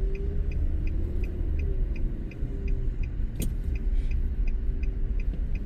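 Car interior while driving: a steady low road and engine rumble, with a light, even ticking about three times a second and one sharp click a little past the middle.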